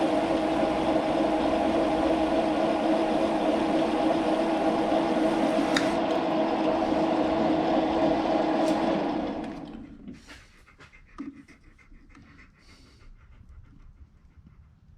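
Metal lathe running steadily with a constant motor and gear whine, switched off about nine seconds in and coasting to a stop over about a second. A few light clicks and taps of handling the part follow.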